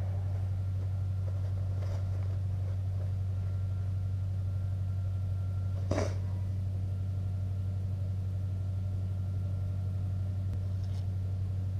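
Steady low machine hum with no change in pitch or level, and a single sharp click or clack about six seconds in.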